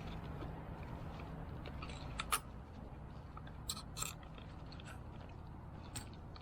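Scattered small clicks, crunches and scrapes of hands working plastic and rubber parts of a fuel pump assembly, with a faint low hum that fades out a couple of seconds in.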